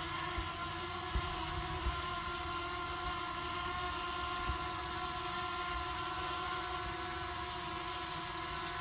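Hubsan Zino Mini Pro quadcopter drone hovering, its propellers giving a steady whine of several constant tones, with an irregular low rumble underneath.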